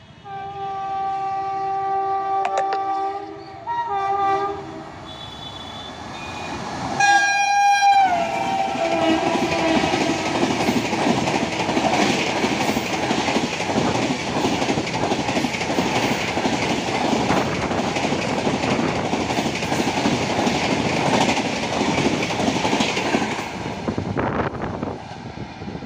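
Archana Superfast Express, an Indian Railways train, running through a station at speed. The electric locomotive sounds its horn in long blasts, the last one dropping in pitch as it passes about seven seconds in. The coaches then rush by with steady wheel clatter over the rail joints, fading near the end.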